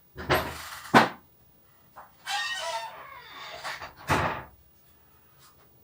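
A drawn-out animal call with a wavering pitch, starting about two seconds in and lasting over a second, between short bursts of rushing noise.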